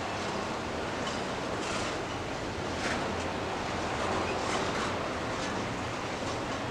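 Train rolling past on the track: a steady rushing rumble of wheels on rail with a few sharp clicks.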